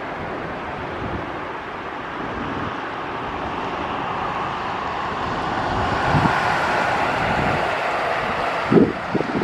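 Boeing 777-200ER jet airliner on final approach, its engine noise a steady rumble that grows gradually louder. Wind gusts buffet the microphone near the end.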